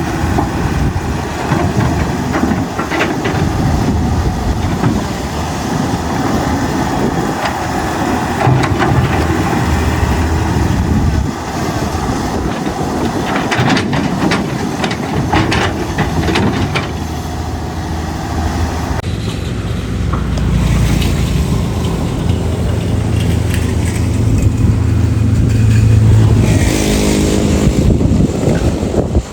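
Hydraulic excavator working: its diesel engine runs steadily, with knocks and scraping in the middle. A little past halfway the sound changes to a lower, steadier engine note.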